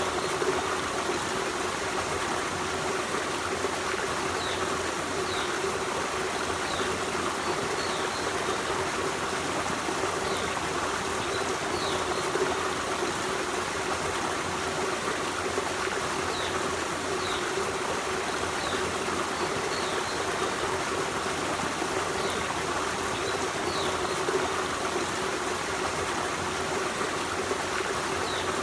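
Forest stream running steadily over rocks, a continuous even rush of water. Faint short high chirps of small birds come and go on top of it.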